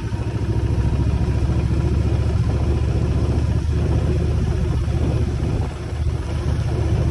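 Motorcycle engine running steadily while riding, a dense low pulsing that dips briefly about six seconds in.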